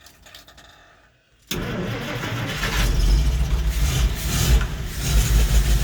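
Cold 1958 Dodge W200 Power Wagon V8, choke pulled out, cranked over. It catches about a second and a half in and keeps running, getting louder after another second.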